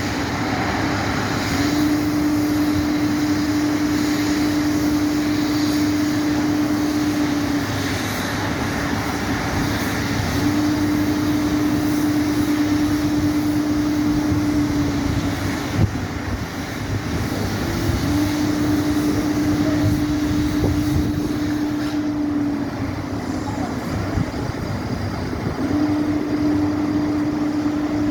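Steady mechanical rumble of engines or machinery, with a steady mid-pitched hum that comes on for about five seconds at a time, four times, with short gaps between. A single sharp knock about sixteen seconds in.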